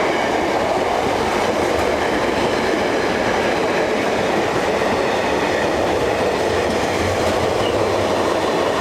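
Intermodal container freight train hauled by a Class 66 locomotive, passing through the station as a steady, loud rolling rush of wagon wheels on the rails.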